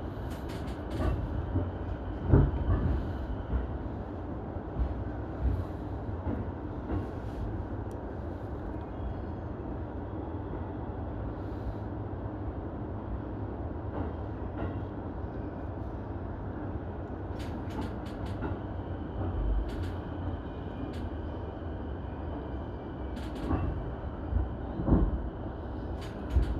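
E233 series electric commuter train running with a steady rumble, a faint high whine and a few brief knocks from the wheels and car body.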